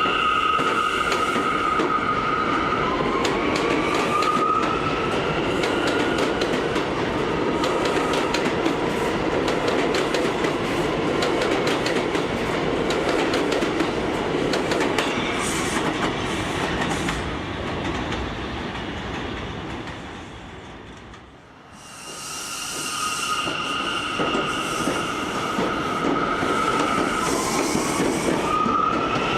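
R179 subway train pulling away and running: a steady electric whine from the propulsion gear, then a rising whine as it speeds up, over wheel and rail rumble with clacking over rail joints. Near the end the sound fades briefly, and the same steady whine and rising whine of a pull-away start again.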